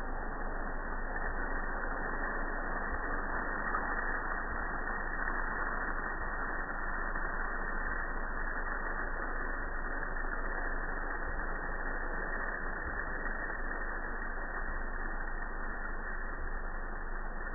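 Coffee roaster running with a steady, even noise and no distinct cracks or rhythm.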